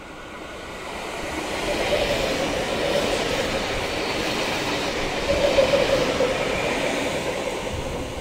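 V-set double-deck intercity electric train running through the station without stopping. The wheel and rail noise builds as it comes alongside, holds loud with a steady hum while the carriages pass close, then eases off near the end.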